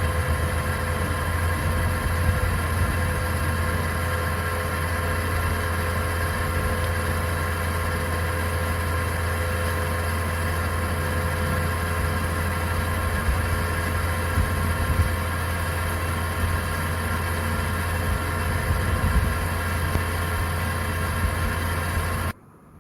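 Hot-air heat gun blowing steadily with a low hum, heating the board to lift off the TV's faulty sound IC. It cuts off suddenly near the end.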